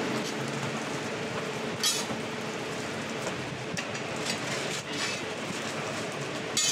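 Scallion pancakes frying on a hot griddle: a steady sizzle, with two short, sharp metal clinks from the cooking tools, about two seconds in and near the end.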